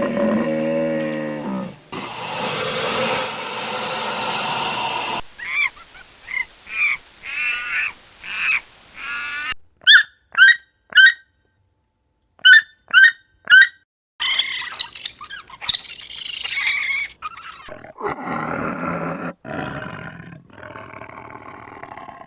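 A run of different animal calls in short clips that cut abruptly from one to the next. First comes a long low call, then a harsh, roar-like call and a string of short repeated calls. Sharp high chirps follow in two groups, then more harsh and drawn-out calls.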